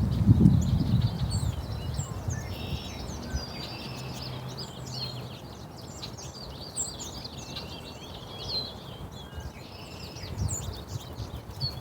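Small birds chirping and twittering: many short, quick calls that slide in pitch, overlapping throughout. Loud low rumbling bursts come at the start and again near the end.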